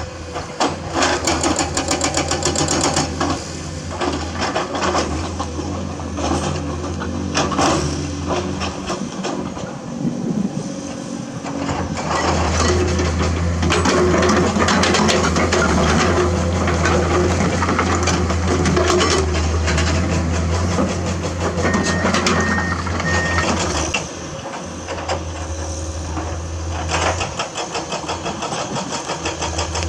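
Komatsu hydraulic excavator's diesel engine running under load, with repeated knocks, clatter and scraping of limestone rock as it works. The engine note eases twice, and three short high beeps sound about two-thirds of the way through.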